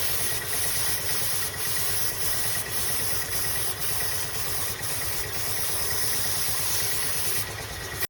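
A motor-driven workshop machine running steadily, with a hiss and a thin steady whine over it.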